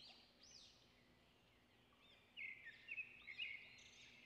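Near silence with faint bird chirps: a run of short calls that rise and fall in pitch and grow a little louder after about two seconds.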